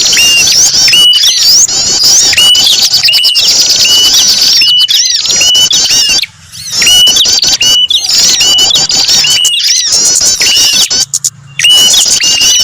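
Small songbirds calling together, as on a bird-trapping lure recording: a hooked chirp repeats about once a second under dense, fast high twittering. The chorus breaks off briefly about six seconds in and again near eleven seconds.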